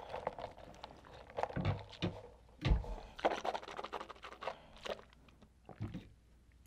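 Close-miked eating sounds: a sip through a straw, then soft chewing and small mouth clicks, with a few low thumps.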